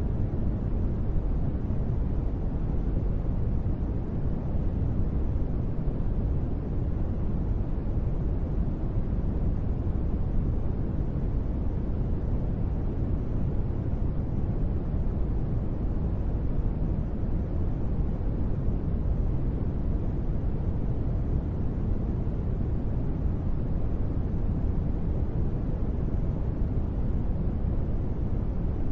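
Steady, deep-toned white noise billed as gentle rain, even throughout, with most of its weight low down, little treble and no separate drops standing out.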